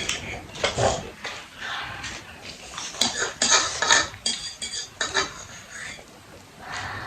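Cutlery scraping and clinking against bowls and plates during a meal, in quick irregular strokes, with a few ringing clinks midway.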